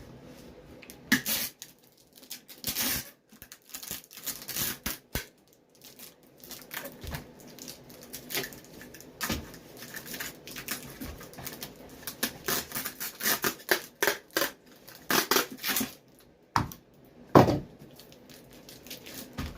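Adhesive tape being pulled off the roll in repeated short strips and torn, wrapped around a rubber boot to clamp a freshly glued sole while the Shoe Goo sets.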